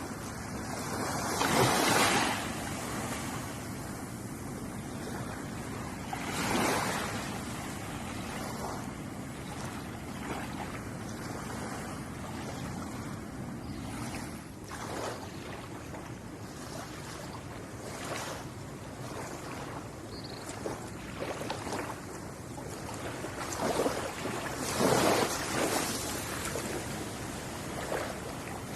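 Ocean waves breaking and washing on a shore: a steady surf hiss, with louder waves swelling and falling away about 2 s in, about 6.5 s in, and twice around 24–26 s in.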